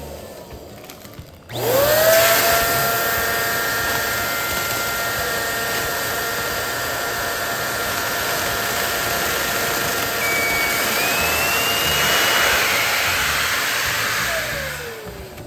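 Electric balloon pump inflating a balloon: the motor spins up about a second and a half in, runs with a steady whine, and winds down near the end. A brief rising high whistle sounds about two thirds of the way through.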